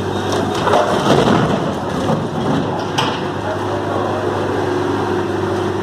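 Heavy truck's diesel engine running steadily under load during a recovery, with a rumbling clatter about a second in and a single sharp knock about three seconds in.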